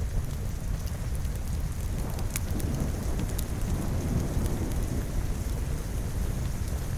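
Steady rain with a low rumble that swells for a couple of seconds mid-way, like distant thunder, and a few sharp crackles from a wood fire.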